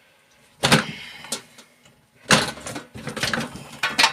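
Clanks, knocks and rattles of a microwave's metal parts being handled while it is taken apart: a sharp clank under a second in, another a little after two seconds, then a run of smaller clicks and taps.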